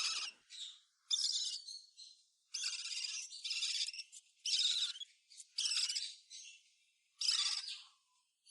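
A young hand-reared parrot giving a series of harsh, raspy begging calls, about eight short squawks with brief pauses between them: a hungry chick begging to be fed.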